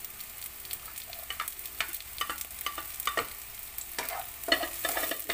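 Sliced onion, red chili and garlic sizzling in olive oil in a wok, with a spatula scraping and clicking against the pan as the mix is stirred: a steady frying hiss broken by many short clicks.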